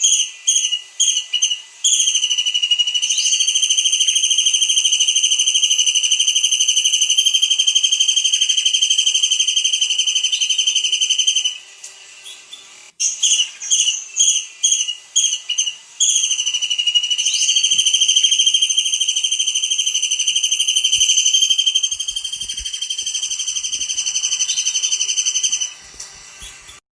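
Kingfisher (tengkek udang) calling: a quick run of short sharp notes that leads into one long, high, trilled note held for about nine seconds, the whole phrase repeated twice with a short pause between.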